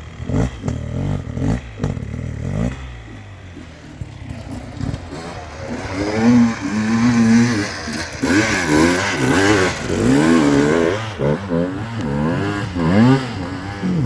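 Dirt bike engine revving hard, its pitch rising and falling over and over as the rider works the throttle up a steep hillclimb. It is quieter for a few seconds early on, then loudest in the second half.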